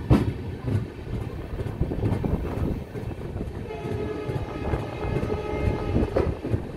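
Passenger train running over the rails, heard from an open coach door, with sharp wheel clacks over rail joints near the start. From about halfway in, a train horn sounds a steady held note for a couple of seconds.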